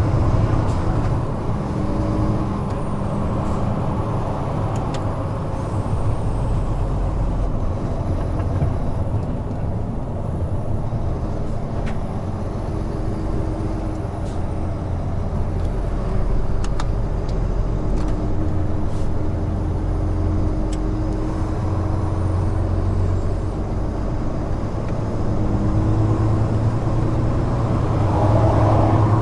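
Large truck's diesel engine running steadily with tyre and road noise while cruising on an expressway. A few faint clicks.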